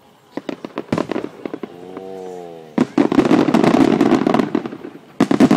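Display fireworks going off: a run of sharp bangs, a brief held tone about two seconds in, then a dense stretch of crackling and another quick volley of bangs near the end.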